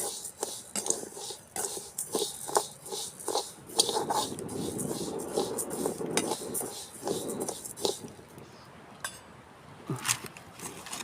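A spoon stirring and scraping rice as it dry-roasts in a metal pan, the grains rustling with each stroke. The stirring slows and goes quieter near the end, with a final clatter.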